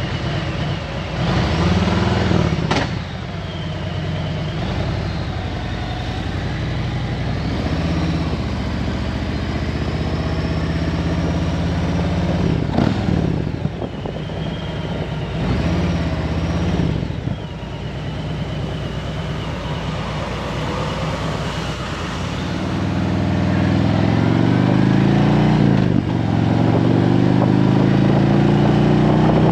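Harley-Davidson Road Glide Special's V-twin engine running on the road, with wind and road noise. Later on, the engine note climbs in repeated rising sweeps as the bike accelerates up through the gears.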